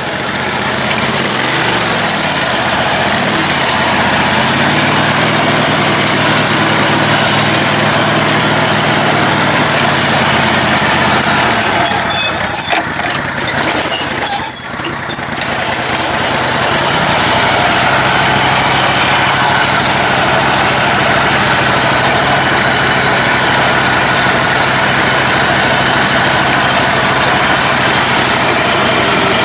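Engine of a lifted, modified riding lawn mower running steadily while driving a trail. Its pitch climbs over the first few seconds, the level dips with some crackling near the middle, and then it runs evenly again.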